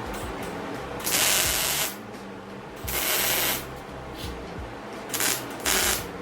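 Four short bursts of steady hissing, each under a second long, over a low background hum.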